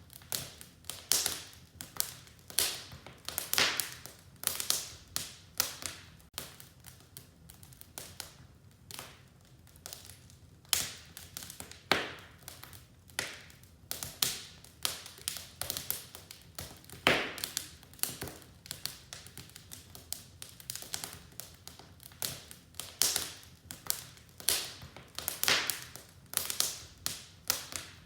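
Wood fire crackling in a fireplace: a steady run of irregular sharp pops and snaps, with a few louder pops standing out.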